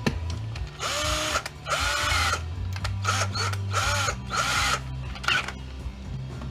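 Cordless drill-driver running in several short bursts, its motor whine rising and falling with each trigger pull, backing out small Torx screws.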